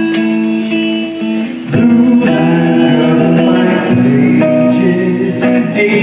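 Guitar playing the opening of a live song: held, ringing notes that swell into fuller, louder playing a couple of seconds in.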